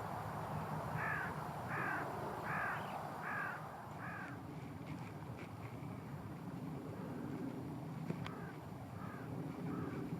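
A crow cawing: five caws about three-quarters of a second apart, then a fainter run of four caws near the end.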